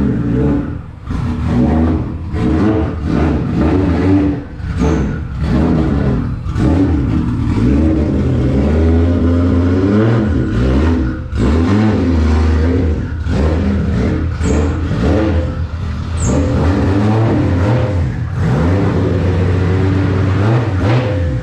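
A car engine revving hard, its pitch repeatedly rising and falling, with many abrupt breaks; the sound cuts off suddenly at the end.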